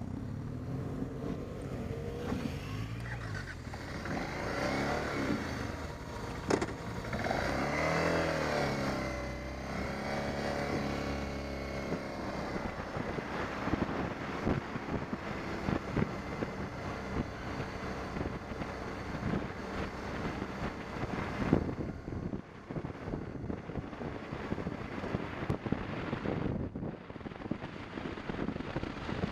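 BMW 650 GS motorcycle engine running on the move, its pitch rising and falling with the throttle through the first dozen seconds. After that it gives way to a rougher, noisier rumble with many short knocks.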